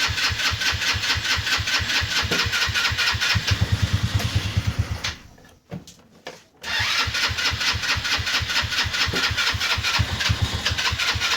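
Go-kart's small engine being cranked over by its electric starter without catching, in two long bouts with a short pause about five seconds in. The engine has sat for months and is being coaxed with starting fluid but does not fire.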